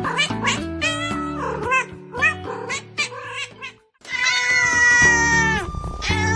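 A cat meowing over background music: a quick run of short meows, then, after a brief break, one long drawn-out meow that drops in pitch at its end.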